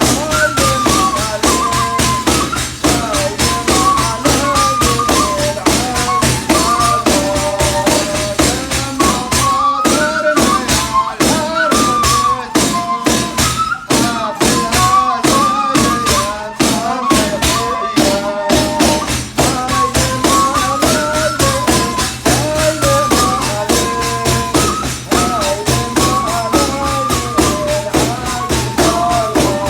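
Yazidi religious music: daf frame drums beaten in a fast, even rhythm, with a melody carried over them by the shebab flute and chanting of religious qewls.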